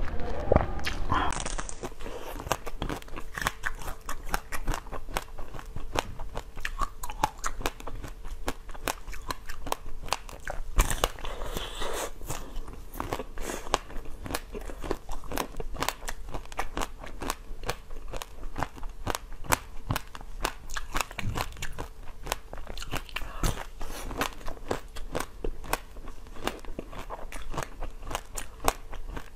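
Close-miked biting and chewing of crunchy food: a dense, continuous run of sharp little crunches and crackles.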